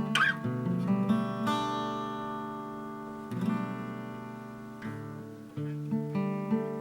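Acoustic guitar music: strummed and picked chords, with a change of chord around three and a half seconds in and again near five and a half.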